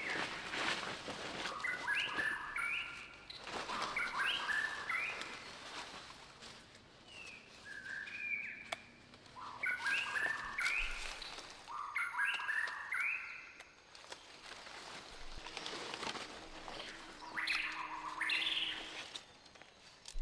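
Bird song: short phrases of clear, stepped notes repeated every second or two, with scattered rustling and light knocks beneath.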